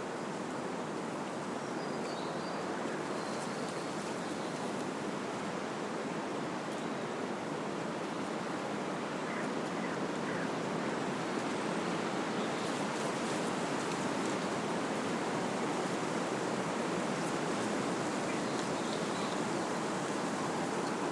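Wind blowing through trees, a steady rushing of leaves and branches that swells slightly about halfway through.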